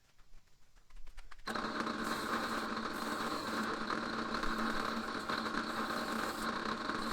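An electric workshop power tool starts about a second and a half in and runs steadily, a constant motor hum under a hiss.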